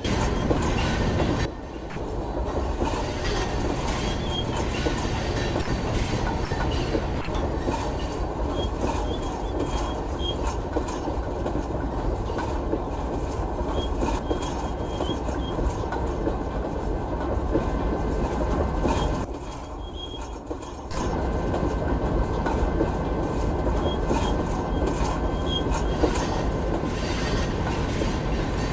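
Train running on the rails: a steady rumble with continuous rattling clatter of wheels and cars, briefly dropping away twice.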